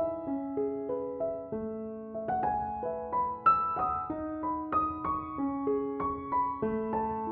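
Soft background piano music: a slow melody of single struck notes over held low notes.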